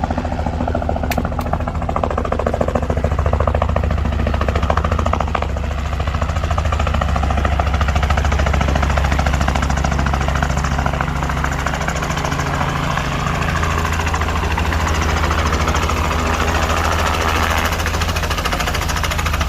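Aircraft engine running steadily: a loud, low drone with a fast, even pulse that holds throughout.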